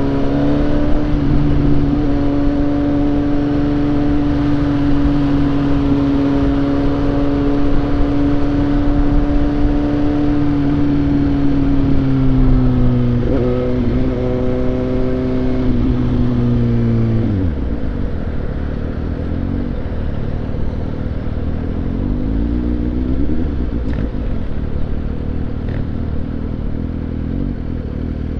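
Suzuki GSX-S750 inline-four motorcycle engine running at steady revs under way, with wind rush. A little over halfway through the pitch wavers, and soon after the revs fall sharply as the bike slows, leaving lower, uneven engine running.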